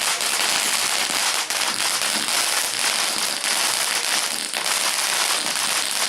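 Cheap Poundland firework going off with a steady, dense crackle and hiss.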